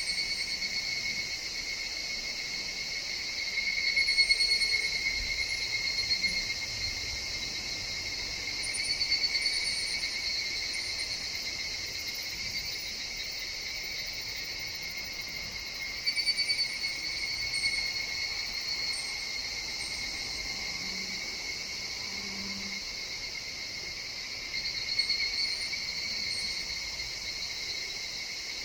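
A chorus of higurashi (evening cicadas, Tanna japonensis) calling steadily in a forest, with louder calls swelling up and fading away four times, each lasting two or three seconds.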